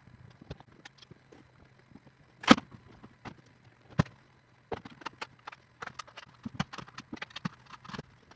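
A run of sharp knocks and clicks over a faint steady low hum: a few separate knocks early, the loudest about two and a half seconds in, then quick irregular clicking through the second half.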